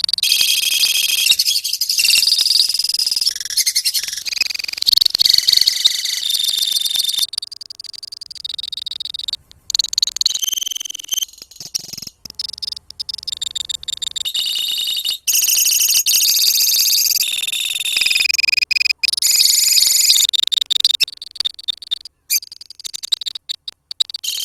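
A colony of lovebirds chirping and chattering in rapid, high-pitched trills, the long continuous song that Indonesian keepers call 'ngekek'. The chatter runs densely, broken by a few abrupt brief gaps.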